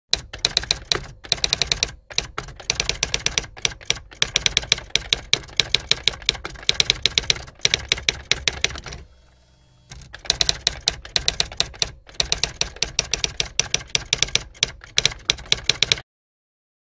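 Typewriter typing sound effect: quick, sharp key strikes several a second, with a short pause about nine seconds in, stopping shortly before the end.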